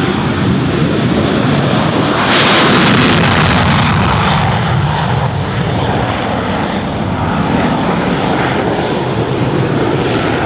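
F-16C fighter jet engine roaring past at close range. It swells to its loudest about two seconds in, then settles to a steady, slightly softer roar.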